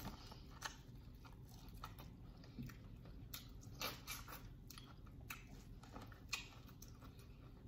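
Faint close-up biting and chewing of seafood-boil corn on the cob, with scattered wet mouth clicks and smacks at irregular moments.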